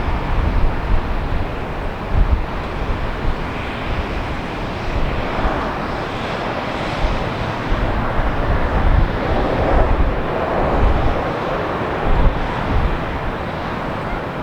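Jet airliner engine noise swelling and then easing off over several seconds, with wind buffeting the microphone throughout.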